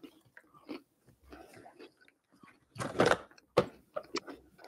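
A person chewing and biting food: soft, irregular mouth noises and small clicks, with one louder noisy burst about three seconds in.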